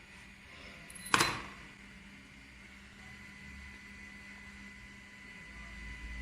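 Desktop CNC engraving machine running with a steady high electrical whine and a low hum, with a single sharp knock about a second in.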